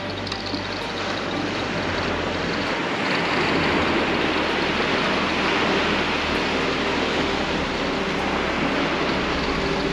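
Steady rushing noise of surf and wind on a beach, growing a little louder about three seconds in.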